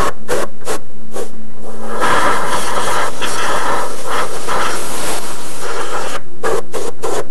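Compressed air hissing from a blow nozzle, cleaning debris off an engine's intake manifold surfaces. It comes in several short blasts, then a steady blast lasting about four seconds, then more short blasts near the end.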